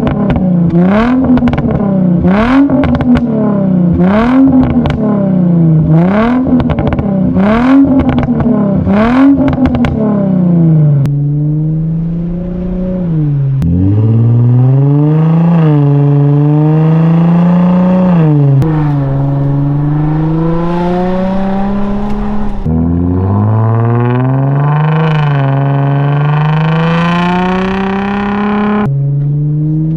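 Infiniti G35's 3.5-litre V6 through a muffler-deleted exhaust on a stock tune. It is revved up and down about six times with short sharp cracks at the peaks, then pulls through the gears, the pitch climbing and dropping at each of three shifts.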